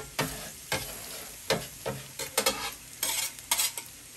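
Chicken pieces sizzling in teriyaki sauce on a steel flat-top griddle while a metal spatula scrapes and turns them in irregular strokes; the sauce is caramelizing on the hot steel.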